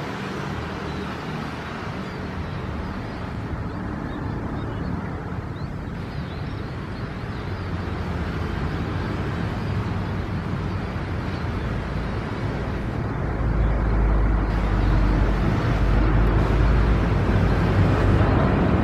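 Aircraft engine noise, a steady rumble that slowly grows louder, with a deeper low rumble coming in about 13 seconds in.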